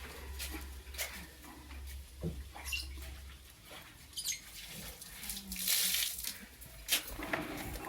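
Lovebirds giving a few short, high chirps among scattered clicks and scratching, with a brief noisy burst just before the six-second mark. A low hum underneath stops a little before halfway.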